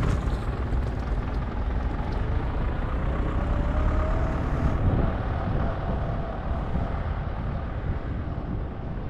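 Vintage tractor engines running on the road in a steady low rumble, with a faint rising whine partway through.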